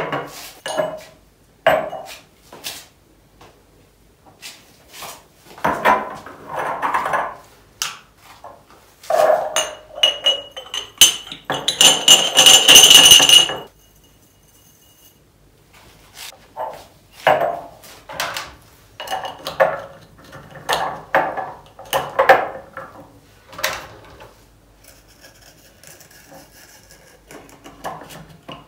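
Glass spice jars and kitchen containers being handled: a string of clinks, knocks and taps, with a few seconds of dense rattling near the middle.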